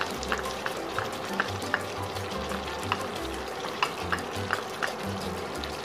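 Chicken pieces sizzling and bubbling in a hot wok as the soy sauce mix hits the pan, with scattered small pops of spatter.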